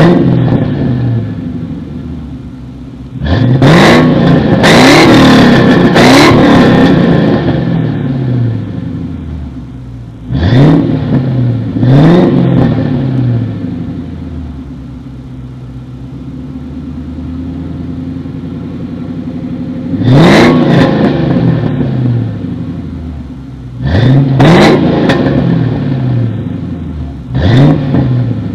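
A 1995 Ford Thunderbird's engine is revved in short free-revving blips through JBA headers, an H-pipe dual exhaust and Flowmaster 40 Delta Flow mufflers. Each blip's pitch rises quickly and sinks back to idle, with several quick revs in a row about four to six seconds in and again in the second half.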